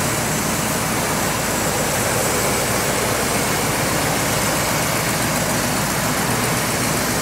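Ford 429 big-block V8 of a 1969 Thunderbird idling steadily.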